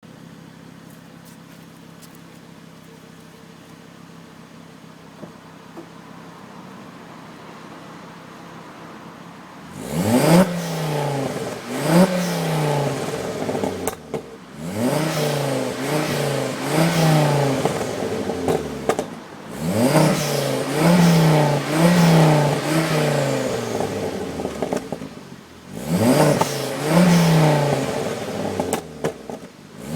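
Ford Focus ST's turbocharged 2.5-litre five-cylinder engine through a straight-through Milltek exhaust with no catalytic converter, idling steadily and fairly quietly on a cold start. About ten seconds in it breaks into loud throttle blips: clusters of quick revs that rise and fall, with short drops back to idle between the groups.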